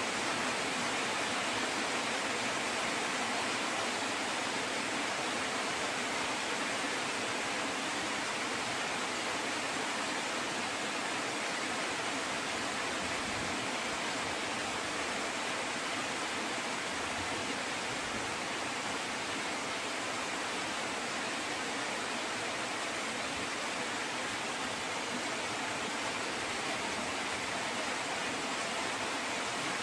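Steady rain falling with an even hiss that does not change.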